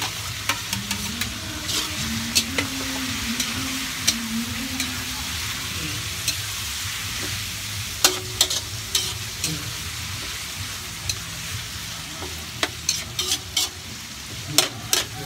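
Pork with chicken liver and gizzards sizzling in hot oil in a large aluminium wok, stirred with a metal spatula that clicks and scrapes against the pan again and again, most often in the second half.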